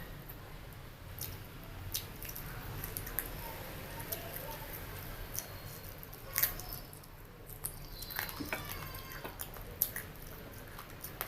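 Close-up mouth sounds of eating: scattered wet chewing smacks and clicks, with a brief pitched hum-like voice sound about eight and a half seconds in.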